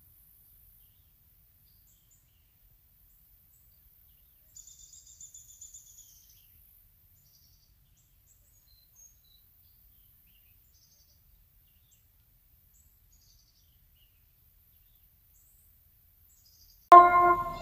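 Near silence outdoors, broken by a faint, rapid, high bird trill about four to six seconds in and a few faint chirps a little later. Near the end a loud held tone with several overtones cuts in suddenly.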